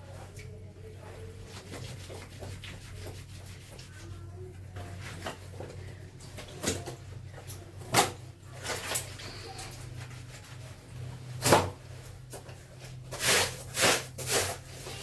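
Clothes being washed by hand: rubbing and handling noises, with sharp knocks about eight seconds in, again a few seconds later, and several more close together near the end, over a steady low hum.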